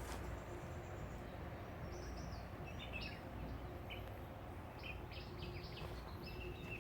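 Small songbirds calling from dense trees: a series of short, high chirps and whistled notes starting about two seconds in, over a steady low background rumble.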